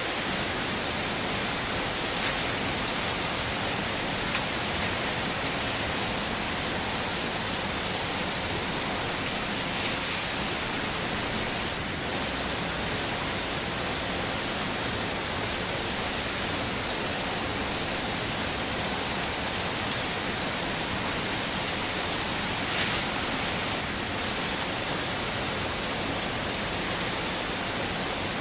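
Heavy rain falling in a steady, dense hiss. The top of the hiss briefly dips twice, about twelve seconds apart.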